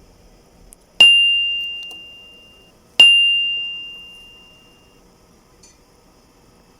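A small bell struck twice, two seconds apart, each time a single clear high ring that fades away over about two seconds.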